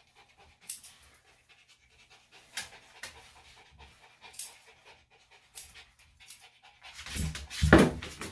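A senior Bichon–Shih Tzu cross dog panting on the grooming table, with a louder burst of noise about seven seconds in.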